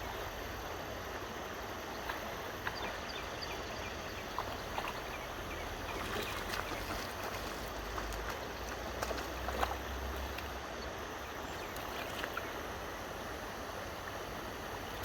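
Steady rush of flowing river water, with scattered small clicks and ticks and a low rumble through the middle.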